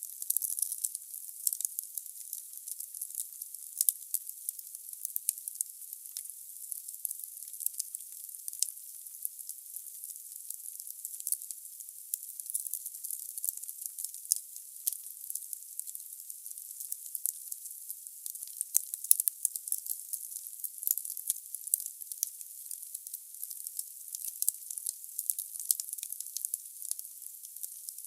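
Wood fire burning in a fireplace: continuous high-pitched crackling and hissing of the burning logs, with a short cluster of louder pops about two-thirds of the way through.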